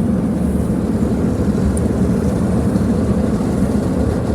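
MacNeil Tech 21 car-wash air dryers with the older-style motors blowing steadily, heard from inside the car: an even, loud rush with a low hum.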